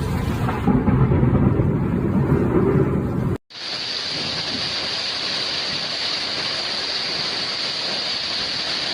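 Storm noise: a heavy rumble of wind buffeting the microphone for about three seconds, then, after an abrupt cut, a steady even hiss of heavy rain.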